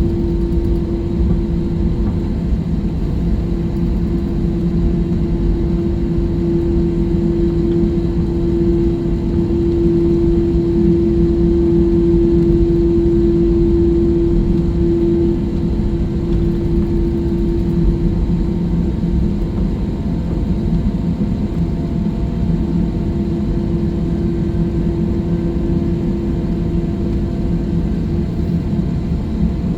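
Jet airliner engines heard from inside the passenger cabin: a steady roar with a steady hum that swells a quarter of the way in and fades again a little past halfway.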